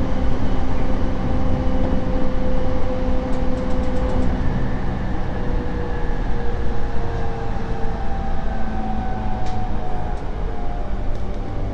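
Running noise inside a JR East E231-series electric commuter train: a steady low rumble with the traction motors' whine slowly falling in pitch, and a few faint ticks.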